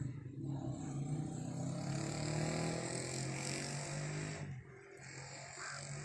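A motor engine running with a steady low hum that drops away about four and a half seconds in.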